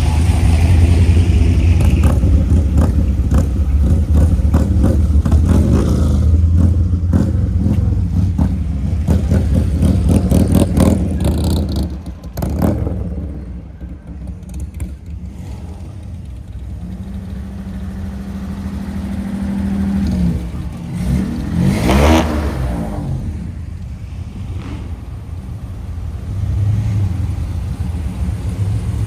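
Car engines running as cars drive past: a loud, deep exhaust rumble for about the first twelve seconds, then quieter engines, with one engine sweeping in pitch as it revs or passes about twenty-two seconds in.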